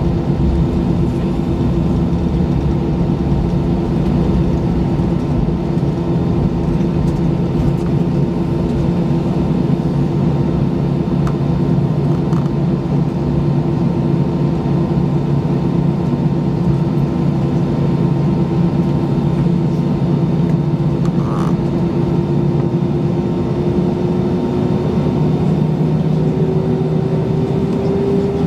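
Airbus A320 jet engines heard from inside the passenger cabin, running steadily with a droning whine over the rush of noise. The whine starts to rise slowly in pitch near the end.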